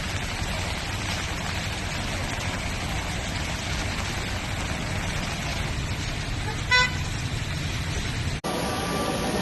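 Steady low outdoor rumble with one short vehicle horn toot about seven seconds in. Near the end the background changes abruptly to a different noise.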